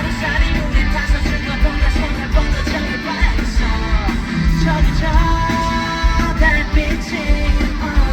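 Live pop-rock band playing loudly, with drums, bass and electric guitar under a sung vocal line.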